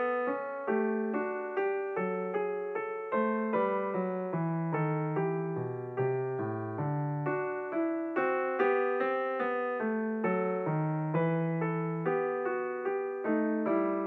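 Gentle background piano music: single notes and chords struck one after another about twice a second, each fading away before the next.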